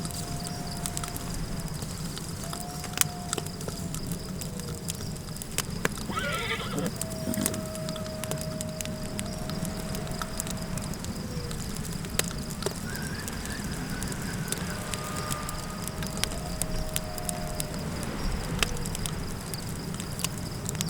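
Campfire crackling with scattered sharp pops over a steady low rumble of wind, with long wavering howling tones of desert wind rising and fading every few seconds. About six seconds in, a horse gives one short whinny.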